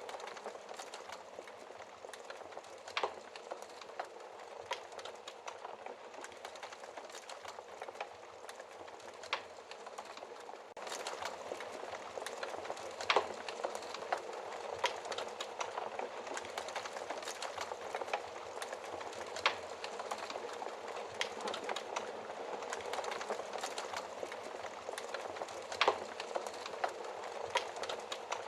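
Wood fire crackling in a fireplace: a steady hiss of burning with frequent small snaps and a few sharper, louder pops. It gets a little louder about eleven seconds in.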